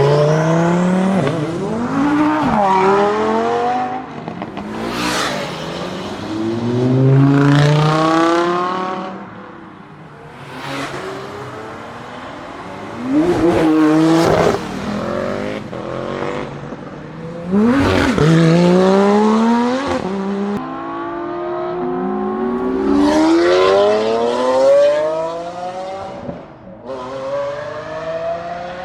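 A run of high-performance car engines accelerating hard, their pitch climbing through the revs again and again, with several cars passing by as their pitch drops sharply. The sound changes abruptly every few seconds from one car to the next.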